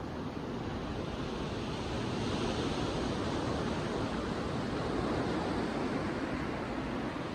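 Sea waves breaking and washing up a beach: a steady surf rush that swells a little about two seconds in.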